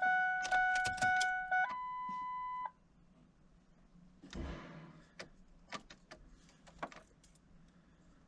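2001 Ford Expedition's dashboard warning chime beeping as one steady tone that steps up to a higher tone and cuts off about two and a half seconds in, followed by light clicks and jingles of the ignition keys. No fuel pump hum comes on with the key: the pump is not priming, which the owner takes for a dead fuel pump.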